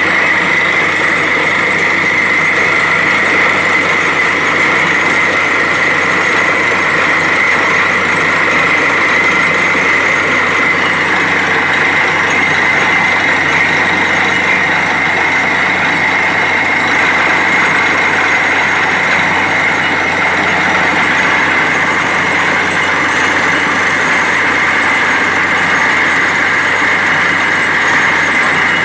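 Borewell drilling rig running steadily and loudly, its engine and drilling machinery making a continuous noise with a strong high band throughout.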